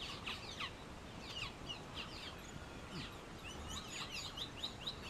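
Small birds chirping: many short, quick downward-sliding notes overlapping one another, over a faint background hiss.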